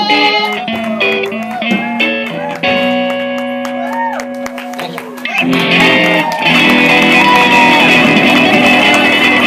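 Live acoustic band music led by guitar, with sustained notes and gliding vocal-like sounds, swelling into a louder, fuller passage about halfway through.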